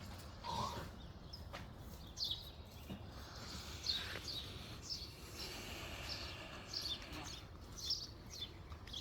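Birds chirping: many short, high, quick down-slurred calls at irregular intervals over a steady low background hum of outdoor noise.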